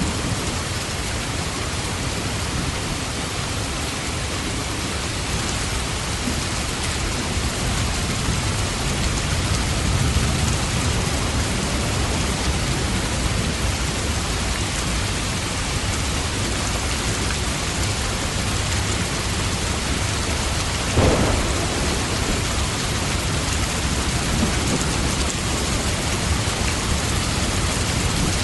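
Steady heavy rain with low rumbles of thunder beneath it, and one short, louder crack about three-quarters of the way through.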